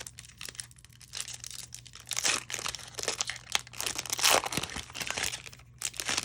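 Wrapper of a Topps Series 1 baseball card pack being torn open and crinkled in the hands, irregular crackling with the loudest rips a couple of seconds in and about four seconds in.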